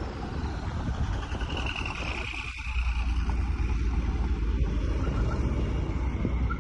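A car's engine rumbling low, growing louder about two and a half seconds in.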